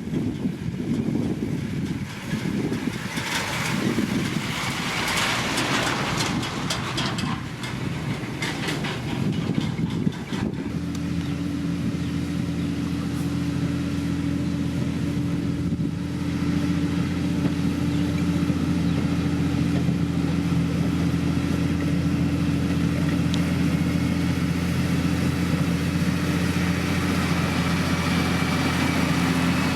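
A rough, noisy rumble for about the first ten seconds. Then a heavy diesel engine of road-building machinery idles steadily with an even low hum.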